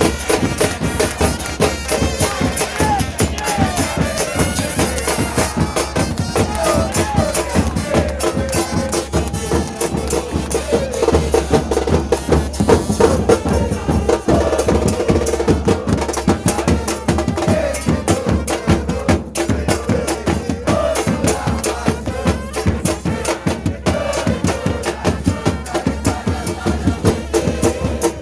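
Football supporters' drum band playing: fast, steady drumming with a melody over it.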